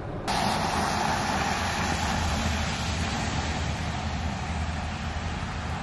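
Steady hiss of rain and wet-road traffic noise with a low rumble underneath, starting abruptly a moment in.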